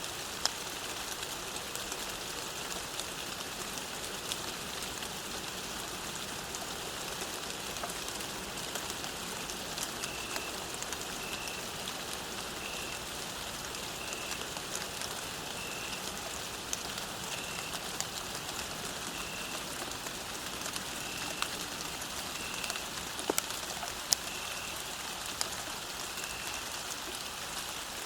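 Steady rain falling, with scattered louder drops ticking. From about ten seconds in, a short high chirp repeats every second or two.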